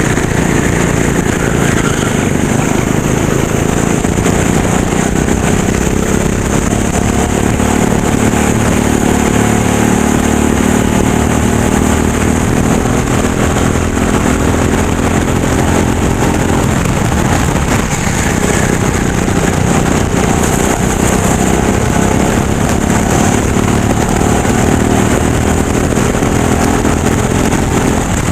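Racing go-kart engine running hard, its pitch repeatedly rising and falling as the kart accelerates and brakes, over steady road and air noise.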